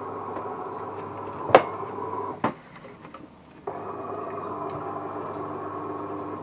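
De'Longhi ESAM1000SJ espresso machine running with a steady mechanical hum. A sharp click about one and a half seconds in, which is the loudest sound, is followed by a second knock; the hum drops away for about a second and then starts again abruptly.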